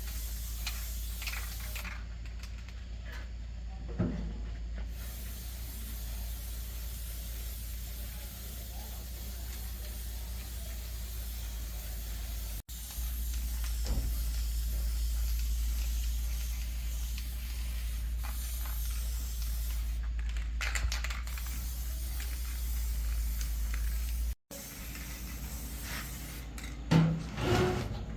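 Steady hissing over a low hum, cutting off abruptly twice, with a short knock early on and a louder knock with a brief ring near the end.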